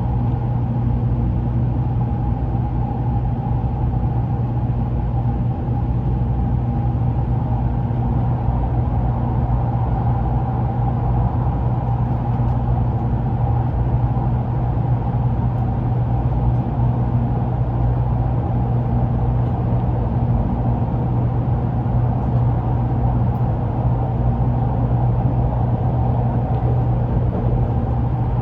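Shinkansen train running, heard from on board: a steady low rumble with a fainter steady whine above it.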